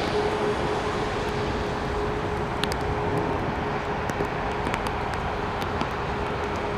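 Steady rushing noise from a Boeing 737 MAX 8's jet engines, with one steady hum held underneath and a few faint clicks.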